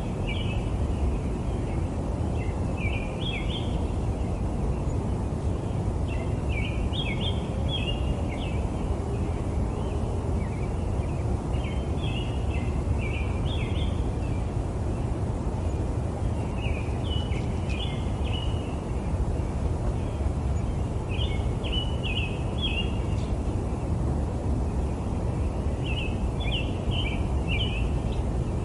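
A small bird sings the same short chirping phrase about every three to four seconds over a steady low rumble of distant city traffic.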